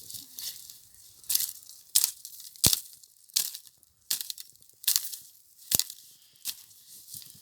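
Footsteps crunching through snow, one dry crunch about every three-quarters of a second.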